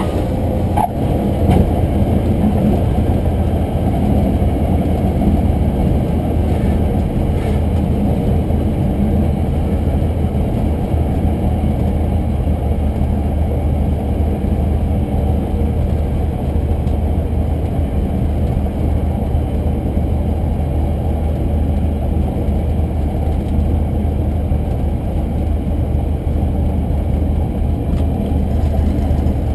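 Cessna 150's Continental O-200 four-cylinder engine and propeller running steadily, heard inside the cockpit, with a brief click about a second in.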